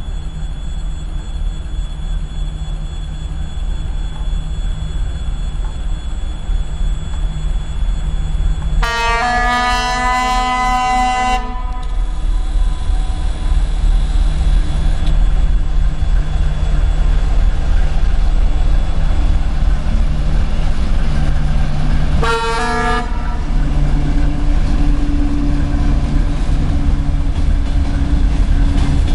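ChME3 diesel shunting locomotive's six-cylinder engine running with a steady low drone that slowly grows louder, its horn sounding one long blast about a third of the way in and a short toot later.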